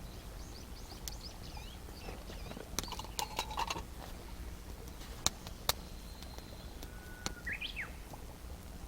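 Small birds chirping in short gliding calls, with one rising-and-falling call near the end, while sharp snaps and clicks come in a cluster about three seconds in and twice more a little later.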